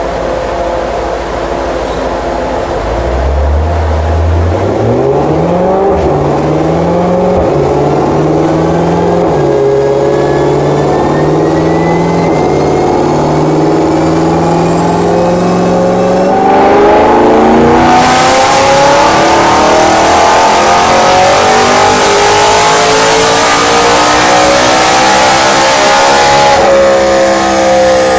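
BMW E92 M3's 4.0-litre V8 running on a dynamometer: low and steady at first, then revving up in several steps with short dips, then climbing steadily in revs under load. A loud rushing noise joins in past halfway, and the revs fall away near the end.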